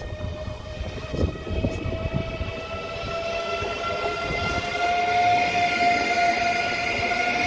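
Eurostar high-speed electric train passing close by: a steady pitched whine that grows louder and rises slightly in pitch as the train goes by, over the rumble of the train.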